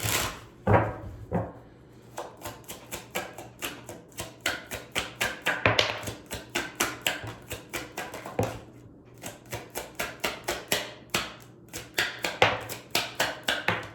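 A deck of tarot cards being shuffled by hand: a rapid run of crisp card slaps and clicks, several a second, with short pauses about two seconds in and again past the middle.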